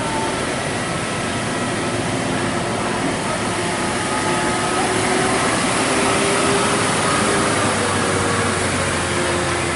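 Box truck's engine running hard, with a steady rushing noise that holds throughout and a faint whine in it.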